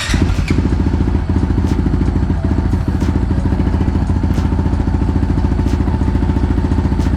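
Honda CRF450RL's single-cylinder four-stroke engine catching on its first start after the work and settling into a steady, loud idle through a Yoshimura exhaust with the baffle taken out.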